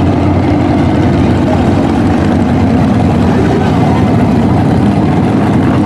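Large truck engine running loud and steady at a low, rumbling pitch, without clear revs.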